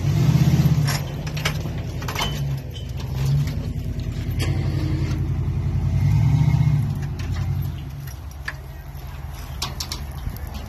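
Truck engine running steadily, its level rising twice, near the start and about six seconds in, with several short metallic clicks over it.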